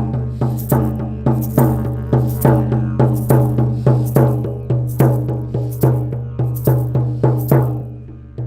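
Sound-therapy music: a drum struck in a steady beat, about three strikes a second, over a low sustained drone. Near the end the strikes fade for a moment, then come back softer.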